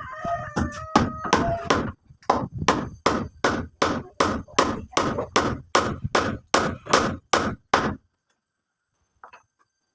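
Rapid, evenly spaced hammer blows, about three a second, that stop abruptly about eight seconds in.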